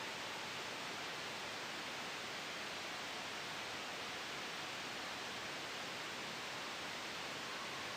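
Steady soft white noise for sleep: an even, unchanging hiss with no sudden changes.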